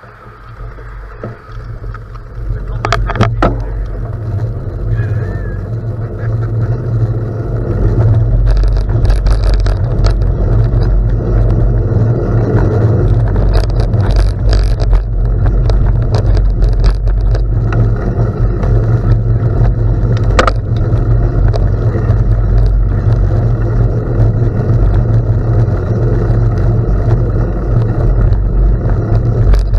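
Steady, loud rumble of wind buffeting the microphone and tyre noise while riding a gravel bike, building over the first several seconds, with a few sharp clicks.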